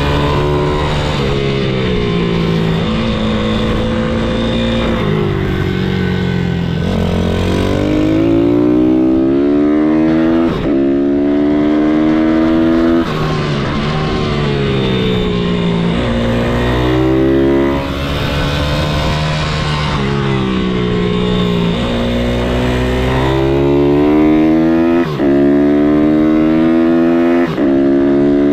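MRF 160-R supermoto pit bike's single-cylinder four-stroke engine running hard. It climbs in pitch again and again as it accelerates, with short dips at each gear change, and falls in pitch when it slows.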